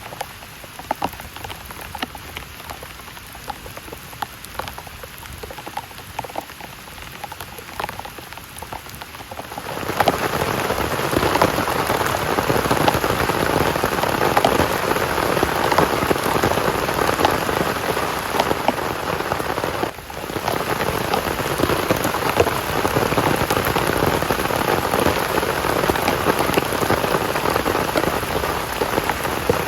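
Heavy rain falling, with separate drops pattering at first; about a third of the way in it suddenly becomes much louder and denser, and briefly dips about two thirds of the way through.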